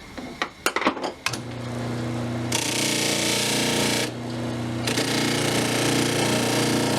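A few clicks, then a power tool's motor starts and runs at a steady hum. About a second later a coarse fiber abrasive wheel bites into the rusty steel tool with a loud scrubbing rasp. It breaks off for under a second, then the scrubbing resumes.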